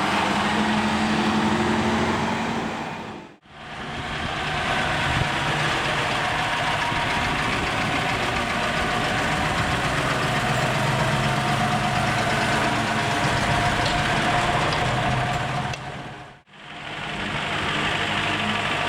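Vintage Krupp truck diesel engines idling steadily. The sound dips to silence twice, about three seconds in and near the end, between shots.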